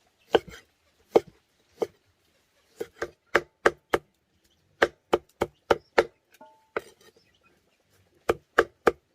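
A knife or cleaver chopping on a wooden board: about seventeen sharp chops in short, uneven runs, with pauses between them.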